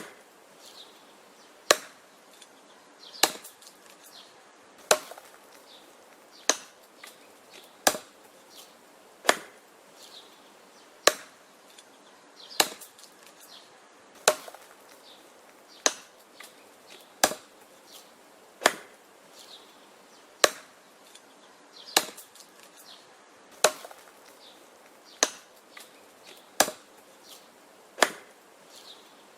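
Wood being chopped: a steady series of sharp chopping blows, about one every one and a half seconds, some followed by a lighter knock.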